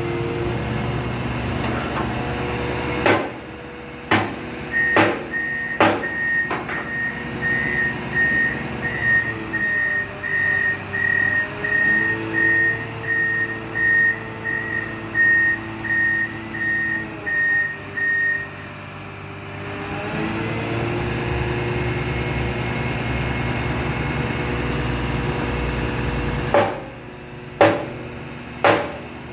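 Heavy construction machine's diesel engine running, with sharp metallic clanks. For about fourteen seconds a reversing alarm beeps steadily, about one and a half beeps a second, while the engine drops to a lower, quieter note. The engine speeds back up towards the end and a few more clanks sound.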